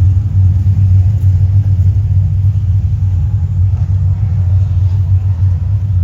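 Steady low engine and road rumble of a car heard from inside the cabin while driving.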